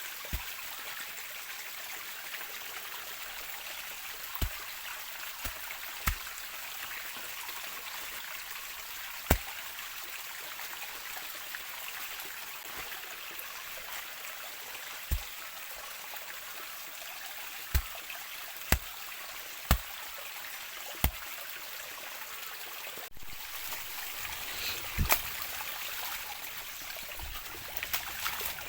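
Steady rushing of water in the rainforest, with about a dozen sharp, irregular taps or knocks scattered over it; the sound breaks briefly and changes slightly about 23 seconds in.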